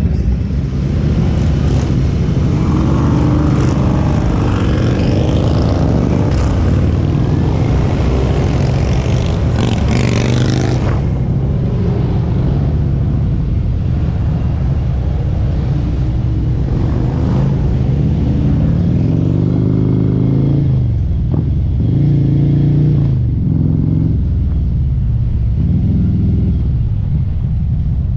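Harley-Davidson bagger motorcycle's V-twin engine and exhaust running at road speed, with wind noise over it for the first ten seconds or so. In the second half the engine revs rise and fall several times.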